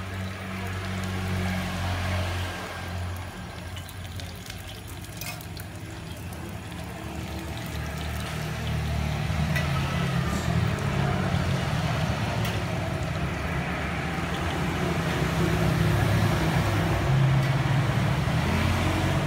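Martabak telur frying in oil on a flat griddle, with a few short clicks, over a steady low rumble that grows louder in the second half.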